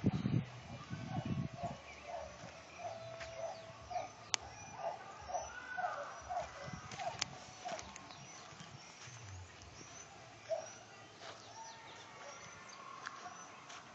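Birds calling: a run of short, low, evenly repeated notes, about two a second, that fades out about halfway through, with fainter high chirps from other birds throughout. A low rumble sounds in the first second or so.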